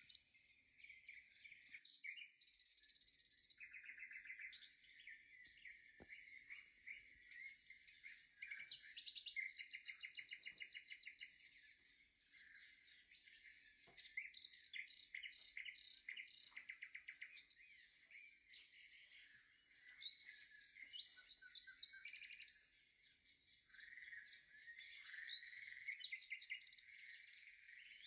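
Faint, continuous chirping and twittering of small birds, with quick trills every few seconds.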